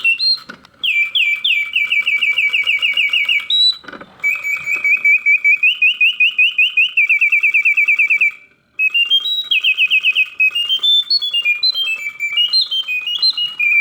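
Reuge singing bird automaton singing. Its bellows-blown mechanical whistle runs through rapid trills and warbling chirps, at full voice, with short breaks about four and eight and a half seconds in.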